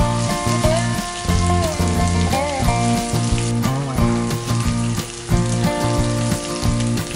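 Paneer cubes sizzling as they fry in oil in a pan and are turned with a steel ladle. Background music with a melody and a repeating bass line plays over the sizzling and is the louder sound.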